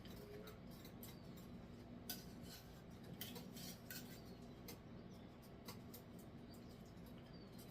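Faint, scattered clinks and taps of a utensil against a skillet as chicken thighs are nestled into the vegetable mixture.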